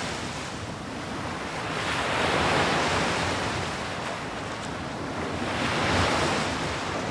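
Sea waves breaking and washing on the shore, swelling twice, a few seconds apart.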